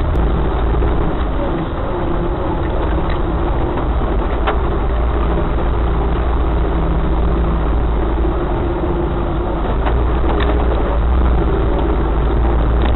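Off-road vehicle engine running steadily, a loud low drone with a few brief knocks and rattles.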